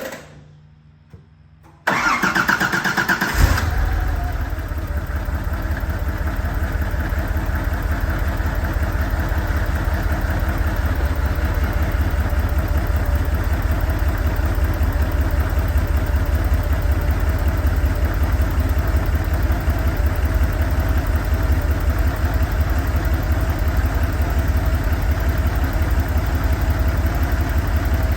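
1987 Porsche 911 Targa's air-cooled 3.2-litre flat-six cold-started: the starter cranks for about a second and a half, the engine catches with a brief flare, then settles into a steady idle.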